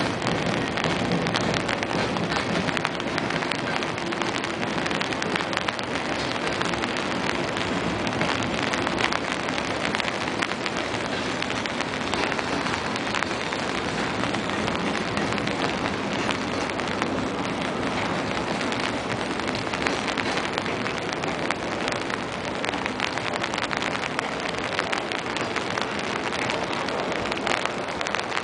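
Heavy rain pattering on an umbrella close to the microphone, many fine drop hits over a steady hiss, with the low steady rumble of freight cars rolling past on the rails underneath.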